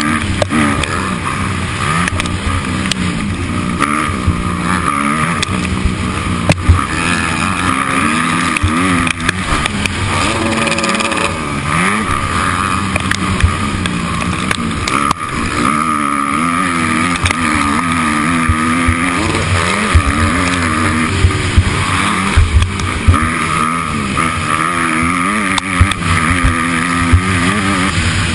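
Motocross bike engine racing round the track, its revs rising and falling over and over as the throttle opens and closes, with a few sharp knocks now and then.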